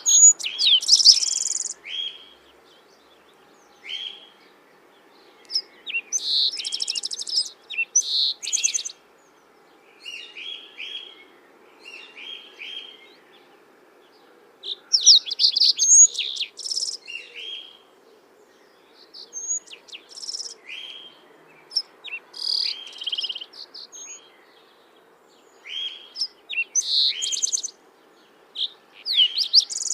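Songbirds singing: phrases of quick chirps and rattling trills come every couple of seconds with short pauses between, over a faint steady background hum.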